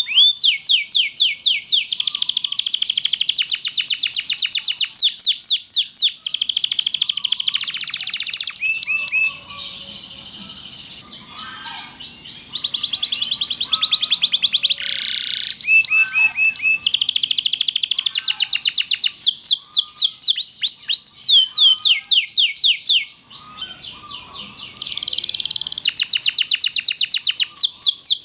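Domestic canary singing long, rapid rolling trills of repeated downward-sweeping high notes, with two softer, quieter passages between the trill runs.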